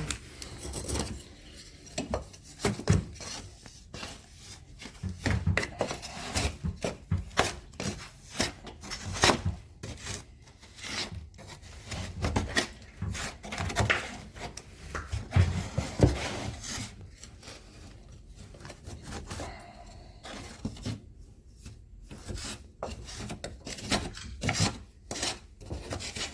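Hand work on an old wall's sheetrock, insulation and wiring: irregular rubbing, scraping and knocking with many short clicks.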